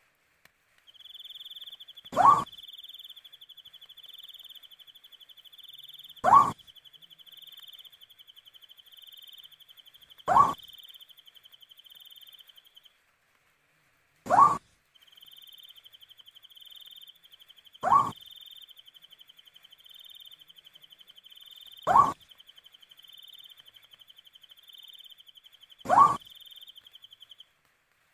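An owl giving a short, rising call, repeated seven times at even intervals of about four seconds. Behind it, a steady, pulsing high-pitched insect trill runs on, stopping briefly a few times.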